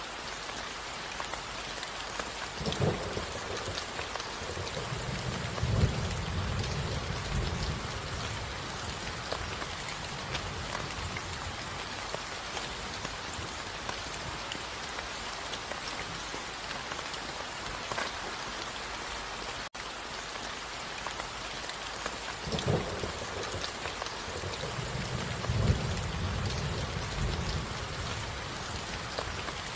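Steady rain falling, with thunder twice: a sharp crack about three seconds in that swells into a low rumble for several seconds, and the same again about twenty-three seconds in.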